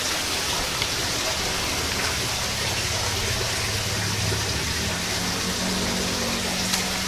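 Steady rain falling, an even hiss with no pauses, with a faint low hum underneath during the second half.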